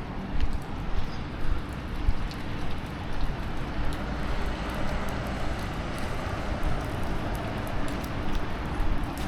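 Rainy city-street ambience: a steady wash of traffic noise over a low rumble, swelling a little in the middle, with soft regular thumps about twice a second in the first half.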